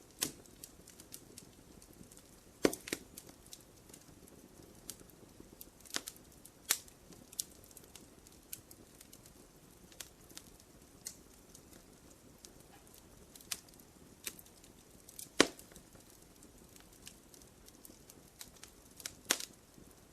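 Wood fire crackling in a fireplace: irregular sharp pops and snaps over a faint low rustle, with the two loudest pops a few seconds in and a little past the middle.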